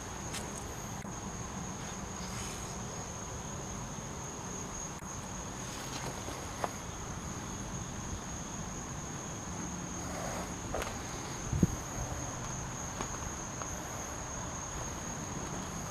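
Insects trilling steadily on one high pitch, a continuous cricket-like drone. A few faint knocks and clicks come through it, one louder knock about three-quarters of the way in.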